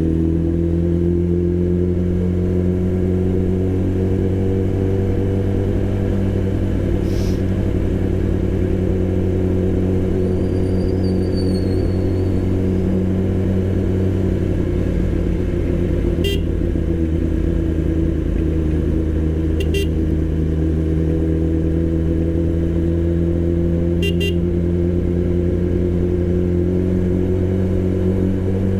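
Motorcycle engine running at a steady cruise, its note holding nearly constant, with brief sharp ticking sounds three times in the second half.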